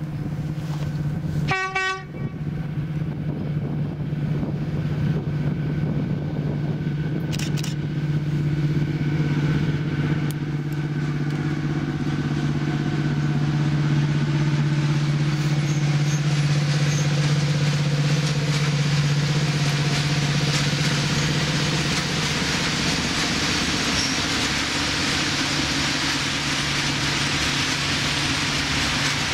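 Electric locomotive hauling a long freight train of hopper wagons past. There is a short horn blast about two seconds in, then a steady low hum. After that comes the rising rumble and clickety-clack of the wagons rolling by, loudest in the second half.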